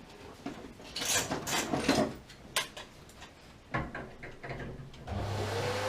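Short clicks and knocks of parts being handled. About five seconds in, a gas water heater starts to run with a sudden, steady rushing noise, a low hum and a tone that rises slightly.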